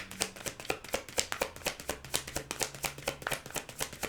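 A deck of tarot cards being shuffled by hand: a rapid run of crisp card clicks, several a second.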